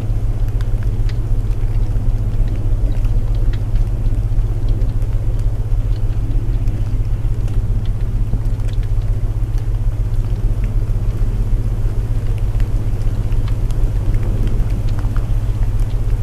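Layered sleep soundscape: a steady low binaural drone under a hiss of rain, with scattered faint ticks and crackles of burning wood in a fireplace.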